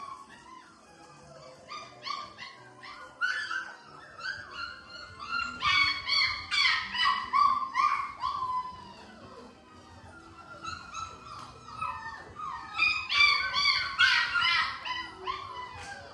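A litter of five-week-old Labrador puppies crying in many short, high calls that often slide down in pitch, several overlapping. The calls come in clusters and are loudest around the middle and again near the end.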